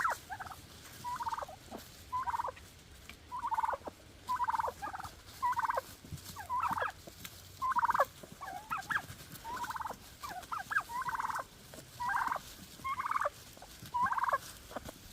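Domestic turkey calling over and over: a steady series of short, rattling calls about once a second.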